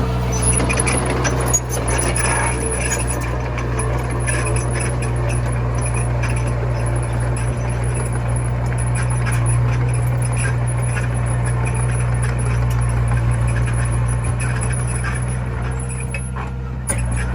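Komatsu mini bulldozer's engine running steadily at working speed, with scattered light metallic clinks. The sound briefly drops near the end.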